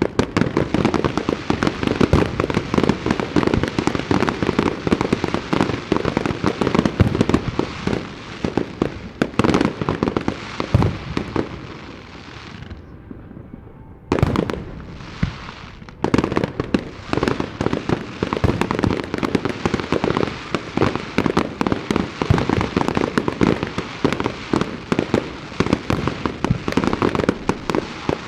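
Aerial fireworks going off in a dense, rapid barrage, shell bursts and crackles overlapping. It eases off briefly about halfway through, then starts again with a loud burst.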